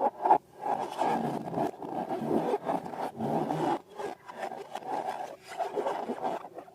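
Rubber balloons being rubbed and squeezed, a continuous scraping rub made of quick strokes.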